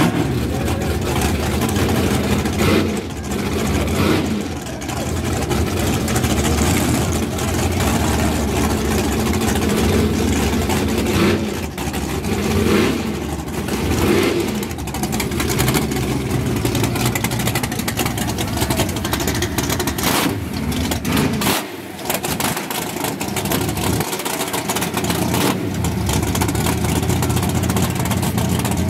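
Nitrous Buick Regal drag car's engine running at a rough idle in its lane, with a few throttle revs rising and falling.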